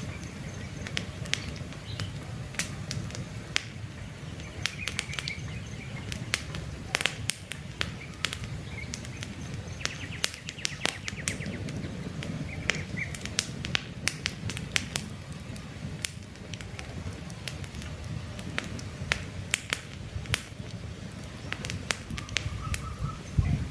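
Wood campfire crackling: frequent sharp pops and snaps at irregular intervals over a steady low rumble of burning flames. Birds chirp briefly now and then.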